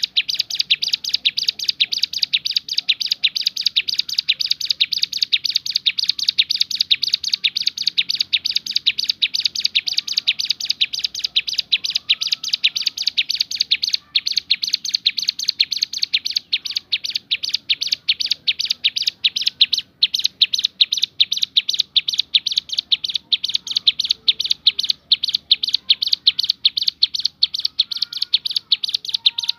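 Male hill prinia (ciblek gunung) singing its rapid 'tembakan' (shooting) song: a fast, unbroken run of sharp, high repeated notes.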